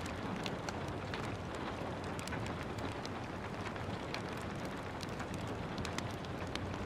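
Steady gentle rain mixed with a wood fire crackling in a fireplace: a constant hiss with scattered sharp pops and snaps throughout.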